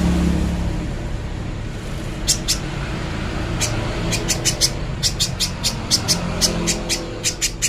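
Spiderhunter calling a string of sharp, high chip notes, a few at first and then quickening to a rapid run of several a second near the end, over a low steady background rumble.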